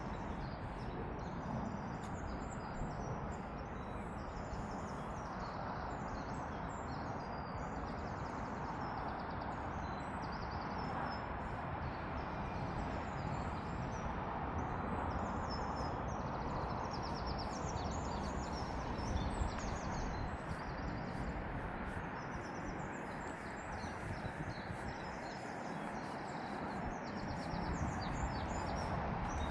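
Small birds chirping over and over, many short high calls throughout, over a steady outdoor background hiss with a low rumble underneath.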